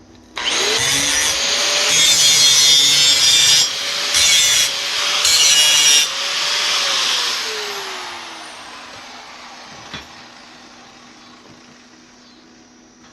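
Angle grinder spinning up and grinding on metal pipe, easing off briefly twice, then the motor winding down after release. A single click near the end.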